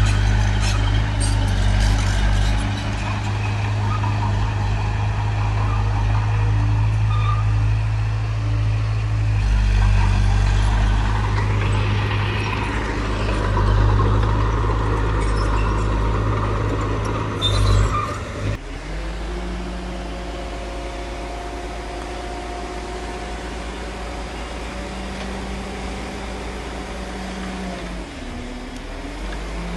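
Heavy diesel earthmoving machinery running, its engine hum swelling and easing as it works. About two-thirds of the way through the sound changes abruptly to a quieter, steadier engine hum.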